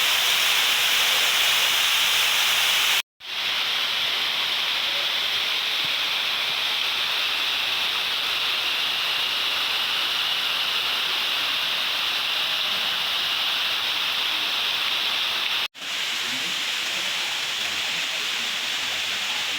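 Waterfall with a steady rush of falling water. It cuts out abruptly twice, about three seconds in and near sixteen seconds, and comes back slightly quieter each time.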